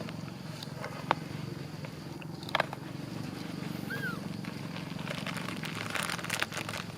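Outdoor ambience: a steady low hum with scattered sharp clicks and crackles, and one brief high squeak about four seconds in.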